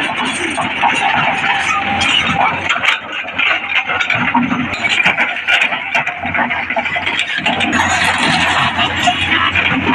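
Hydraulic excavator's diesel engine running steadily under working load, with a few sharp knocks from the machine moving soil.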